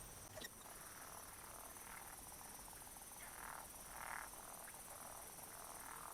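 Faint frogs calling in a few short croaks over a steady, high insect trill: the night chorus of a pond.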